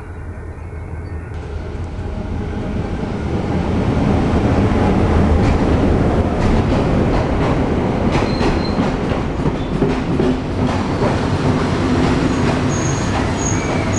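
An express train hauled by a class M6 diesel locomotive arriving at a platform. The locomotive grows louder as it approaches and passes about four seconds in. The carriages then roll by with wheels clicking over the rail joints, and a high brake squeal starts near the end as the train slows to stop.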